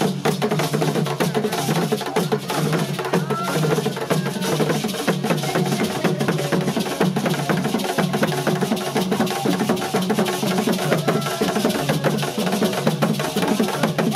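Percussion music: drums and sharp wood-block-like strikes in a dense, fast, unbroken rhythm, with some voices under it.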